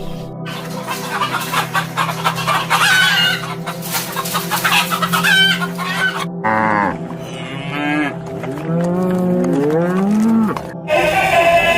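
Chickens clucking and squawking in quick, overlapping calls, then after a sudden cut about six seconds in, a few longer, drawn-out calls that glide in pitch, heard as cattle mooing. A steady low hum runs underneath.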